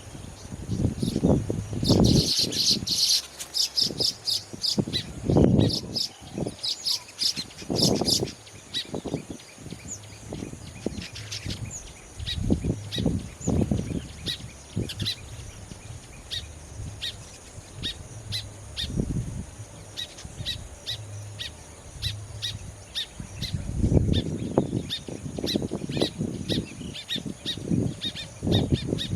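Weaver birds chattering, many short high chirps in quick succession, busiest about two to three seconds in. Irregular low rumbling surges come and go underneath and are the loudest part at times.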